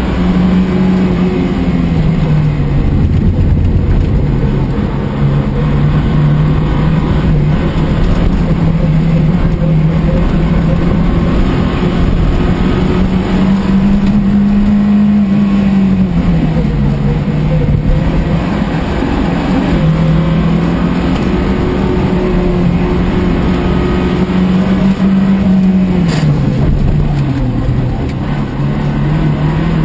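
Engine of an old sedan race car, heard from inside the cabin, running hard as it is driven round the track. Its pitch rises and falls several times with the throttle and gear changes, dropping noticeably about 17 seconds in and again near the end.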